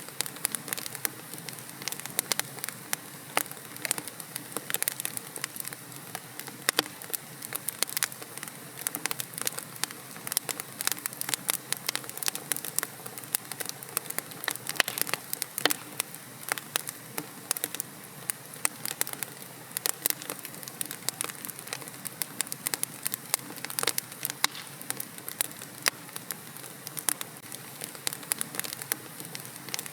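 Wood fire crackling and popping in a fireplace: a steady hiss of burning with many sharp snaps, several a second, at irregular intervals.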